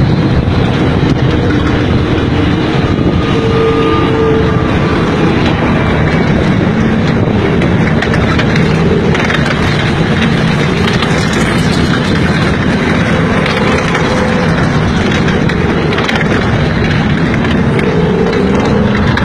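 Loud, steady engine noise from a vehicle, with a faint whining tone.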